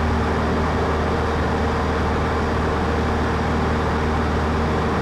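Cessna 152's Lycoming O-235 four-cylinder engine and propeller droning steadily in cruise, heard from inside the cockpit as a constant low hum with a few steady tones.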